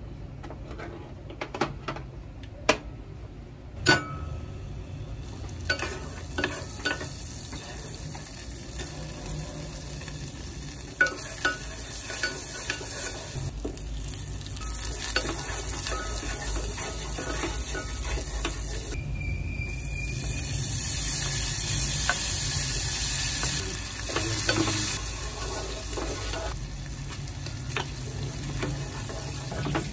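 Garlic and butter frying in a pot on a gas burner, with a wooden spoon stirring and tapping against the pot. A few sharp clicks come in the first few seconds. The sizzle builds from about five seconds in and is loudest past the middle.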